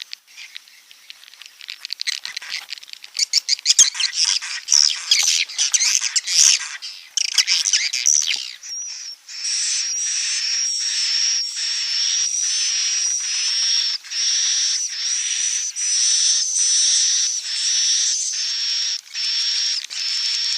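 Swiftlet calls of the kind played to lure swiftlets to nest: several seconds of dense, rapid high chirping and twittering, then a string of near-identical high trills, about one a second with short breaks between them.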